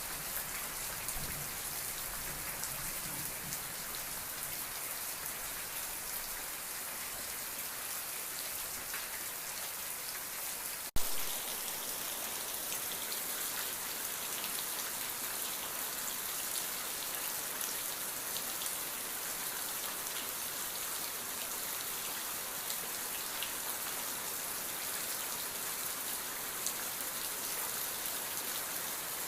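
Steady rain falling, an even patter of many drops. About eleven seconds in there is one sharp click, the loudest moment.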